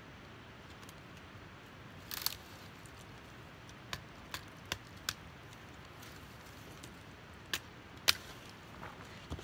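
Folding pocket knife blade chopping into a pine branch: about seven sharp, separate strikes, four of them in quick succession in the middle, the loudest near the end.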